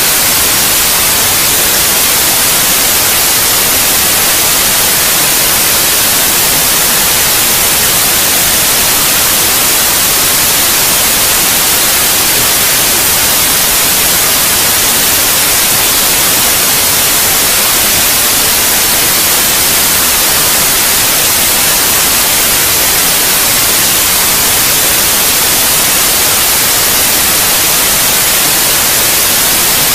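Steady white noise: a loud, even hiss with no changes, made as a sleep sound for babies.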